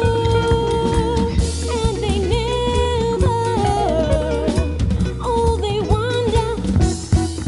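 Jazz-funk band playing an instrumental passage: a lead melody line with pitch bends and vibrato over drum kit and bass guitar.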